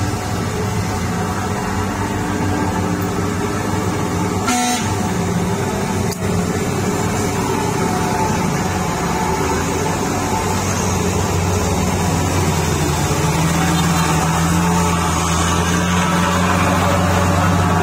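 Heavy truck's diesel engine running under load on a steep climb, its note rising and growing louder in the last few seconds, with a brief sharp sound about four and a half seconds in.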